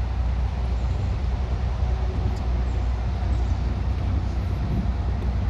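Steady low outdoor rumble with no distinct events, like traffic noise or wind on the microphone.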